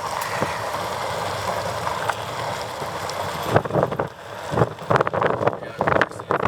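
Steady wind and road noise of a moving vehicle, then from about three and a half seconds in a run of irregular knocks and rattles.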